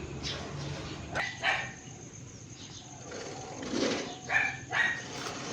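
A dog barking: about five short barks in two groups, two a little after a second in and three close together near the end.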